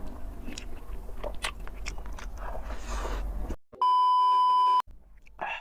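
Close-up eating sounds, chewing with small clicks, for about three and a half seconds. Then a loud, steady electronic beep of one pitch, lasting about a second, cuts in and stops abruptly. A short burst of sound follows near the end.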